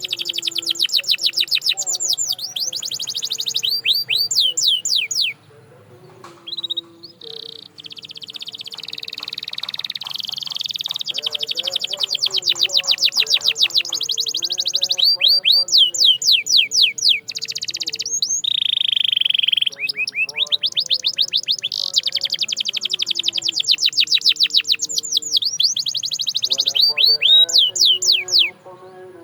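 Domestic canary singing: long runs of rapid, repeated sweeping notes and trills. The song breaks off briefly about five seconds in, then builds up again.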